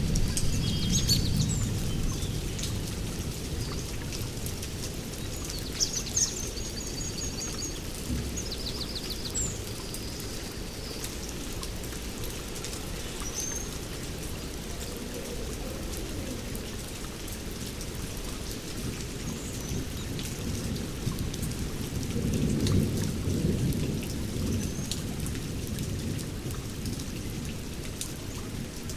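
Steady rain with rolling thunder: a low rumble dies away over the first few seconds and another swells up about 22 seconds in. Birds give short high chirps and trills now and then through the first half.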